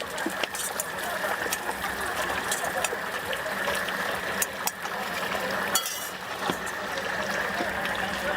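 Stinky tofu deep-frying in hot oil: a steady sizzle with frequent sharp crackles and pops.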